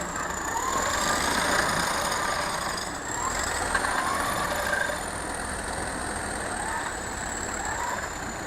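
Heavy machinery engine running steadily under a dense wash of noise, with a thin high whine that slowly wavers in pitch and a few faint short squeaks.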